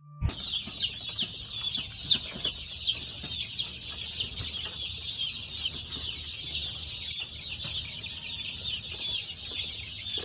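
Many chicks peeping together in a dense, continuous chorus of short, high chirps. It starts suddenly right at the beginning.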